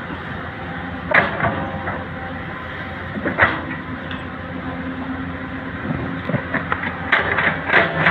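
Excavator's diesel engine running steadily, with sharp knocks about a second in, again near the middle, and a quick cluster of them near the end.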